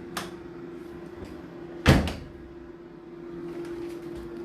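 Indesit IDC8T3 tumble dryer door being shut: a light click at the start, then one loud thud about two seconds in.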